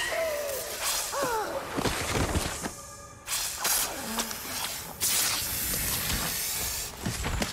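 Film sound effects of a snake-haired Medusa creature: shrieking cries that glide up and down in the first two seconds, then hissing and sharp crashes of breaking stone, growing louder again about five seconds in.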